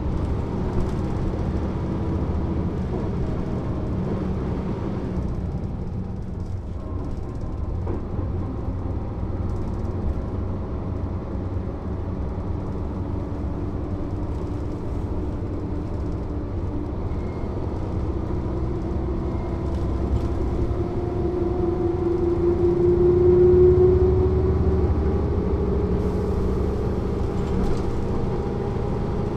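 Mercedes-Benz O 407 city bus's horizontal six-cylinder diesel engine running under way. The note eases off about five seconds in, then climbs steadily in pitch and grows louder as the bus accelerates, peaking about 24 seconds in before dropping back.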